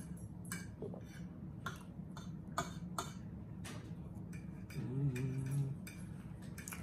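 A man chewing pork roast close to the microphone, with a string of sharp wet mouth clicks and lip smacks about once or twice a second. About five seconds in comes a short low hum.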